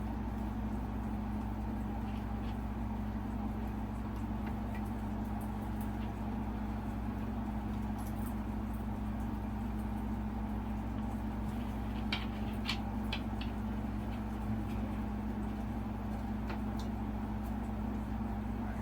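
Steady low electrical-sounding hum, with scattered small clicks and taps of wires and a wire connector being handled, a short cluster of them about two-thirds of the way through.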